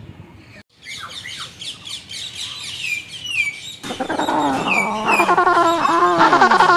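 Aviary birds calling. Many small birds chirp in quick, high, falling notes, and from about four seconds in a louder, lower, harsh squawking call joins them and carries to the end.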